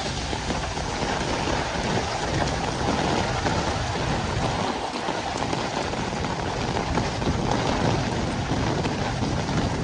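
Heavy rain falling steadily on a city street, an even hiss with a low rumble underneath.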